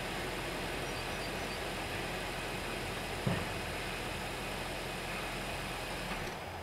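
A car engine idling steadily, with a single short knock about halfway through. The low hum drops away near the end.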